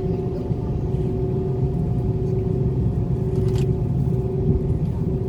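Airliner cabin noise while taxiing before takeoff: a steady low rumble from the jet engines, with a steady humming tone over it. Noisy enough to be called loud.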